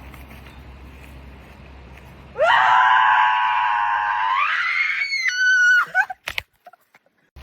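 A woman's long, high-pitched scream, starting a couple of seconds in and held for about three and a half seconds. Its pitch climbs near the end, then it breaks off abruptly.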